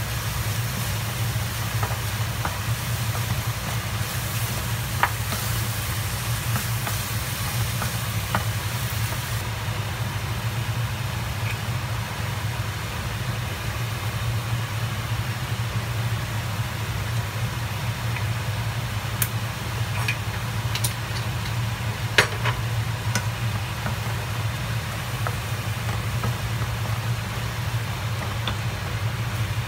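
Sliced mushrooms and onion sizzling in a stainless steel pan while a wooden spatula stirs them, knocking against the pan now and then, the sharpest tap about two thirds of the way through. A steady low hum runs under it, and the sizzle turns quieter about a third of the way in.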